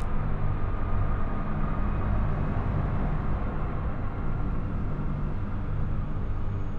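Strong storm wind blowing steadily, with a low steady hum underneath.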